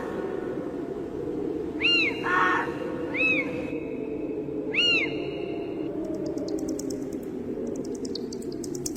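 Spooky night-ambience sound effect: a steady low rumble with a bird calling three times in short, arching cries about two, three and five seconds in, mixed with a shorter harsh call. Near the end comes a patch of fast, high clicking.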